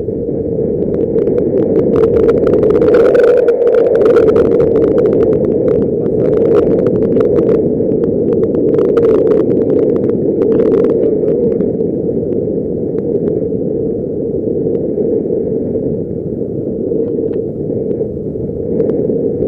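Steady, loud rush of wind over the microphone during a paraglider flight, with faint crackling on top.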